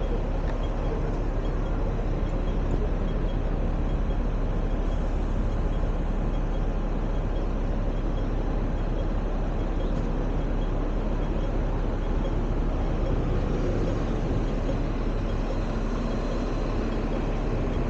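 Steady vehicle rumble: a constant low drone with an even noise over it.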